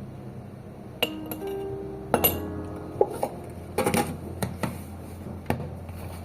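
Glass and dishware clinking and knocking about eight times, some strikes leaving a short ringing tone, over quiet background music.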